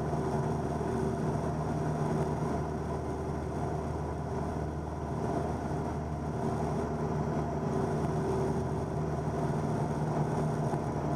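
Cabin drone of a 1977 Cessna 172N in level cruise: its four-cylinder Lycoming engine and propeller running steadily, an even hum with no change in pitch.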